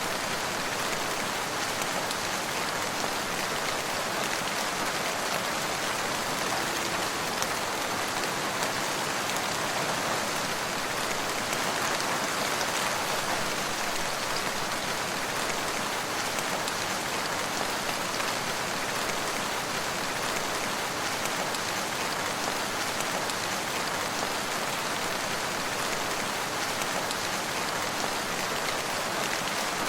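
Steady rain falling on surfaces, a dense, even hiss of many drops with no let-up.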